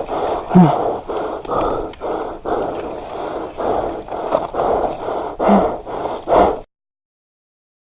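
Yamaha Lander 250 trail motorcycle being ridden over rough ground: a steady rushing noise with irregular knocks and jolts. The sound cuts off abruptly near the end.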